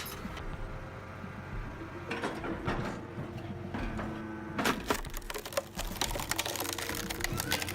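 Log splitter with a winch working: a steady machine drone with scattered clicks and knocks. From about two-thirds of the way through come many sharp knocks and cracks as the logs are handled and split.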